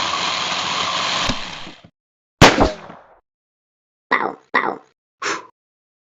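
A run of edited cartoon-style sound effects: a loud, noisy sustained sound that fades away, then a sharp crash with a ringing tail, then three short sharp hits in quick succession.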